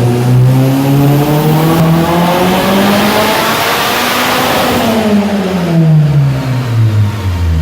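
Turbocharged Nissan SR20DET four-cylinder engine on a chassis dyno, revving steadily upward under load for about four and a half seconds and then winding back down.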